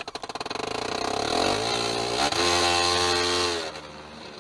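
A vehicle engine revving hard: its firing pulses speed up over the first two seconds, then it holds a high steady pitch before dropping off sharply a little before the end.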